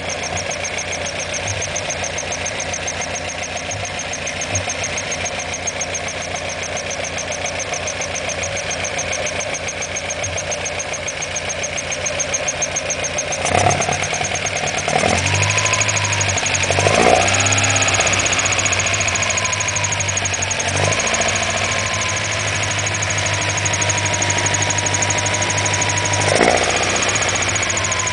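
Alfa Romeo Alfetta GTV 2.0's twin-cam four-cylinder engine idling steadily, then revved about halfway through: the pitch rises and falls a few times, is held higher for several seconds, and drops back to idle near the end.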